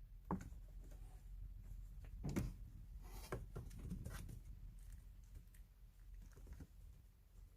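Scattered light taps, knocks and rustling from kittens moving about, with two sharper knocks about a third of a second in and just after two seconds.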